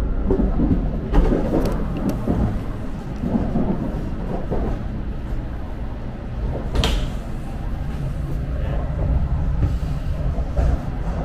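Steady low rumble inside a Shinkansen bullet train carriage as it runs, with a few sharp knocks or clicks, the clearest about a second in and another near seven seconds in.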